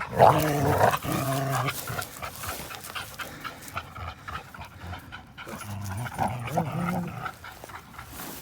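Dog panting hard during tug play, with throaty vocal sounds through about the first two seconds and again around six seconds in.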